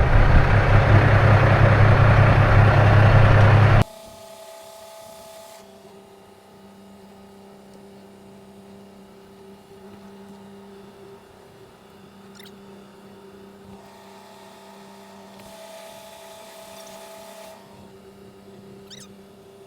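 A truck on the move: loud road and engine noise with a deep rumble for about four seconds. It then cuts suddenly to a quiet, steady hum made of several fixed tones, with a couple of faint high chirps.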